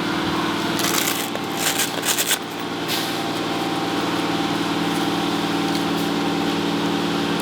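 Steady machine hum, with rustling and clicking handling noises from about one to three seconds in.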